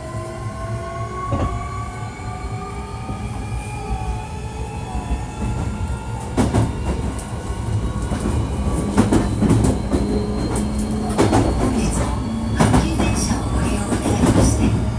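Hankyu 1300 series electric train running, heard inside the car. Its traction motors whine in several slowly rising tones as it picks up speed. About six seconds in, wheel clatter over rail joints and louder rolling noise take over.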